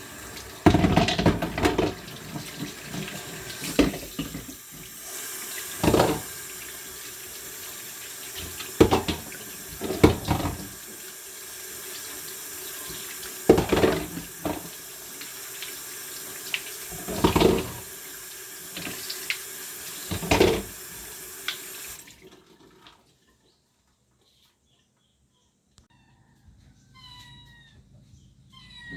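Water running from a tap, with heavy splashes every two to four seconds as things are washed or water is poured under it. The flow cuts off suddenly about three quarters of the way through.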